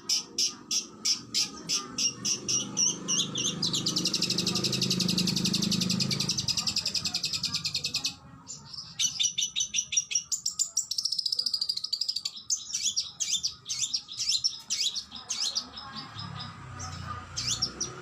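Oriental magpie-robin (kacer) song. It opens with a run of sharp repeated notes, about four or five a second, which speed into a fast continuous trill. After a brief break about eight seconds in comes a varied run of whistled notes, then scattered calls.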